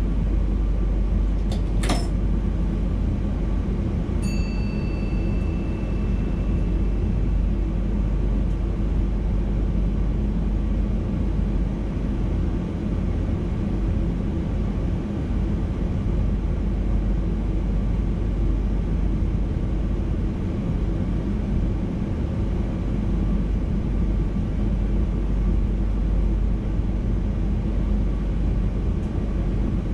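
VIRM double-deck electric intercity train running, a steady rumble and hum heard from the driver's cab. A sharp click comes about two seconds in, and a short high tone starts about four seconds in and fades over a few seconds.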